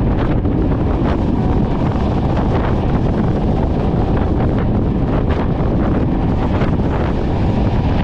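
Wind buffeting the microphone over the steady rumble of a moving train, with short sharp clicks at irregular intervals.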